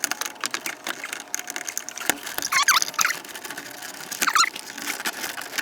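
Close clicking and scraping of hand tools and parts being worked inside a truck door, with two short wavering squeaks, one about two and a half seconds in and one near four and a half seconds.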